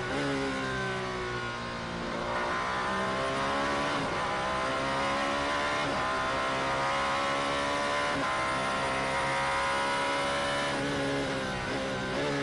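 Alpine A424 hypercar's twin-turbo V6 racing engine. Its pitch drops over the first two seconds, then climbs through several gear changes, holds high, and falls again near the end as the car backs off.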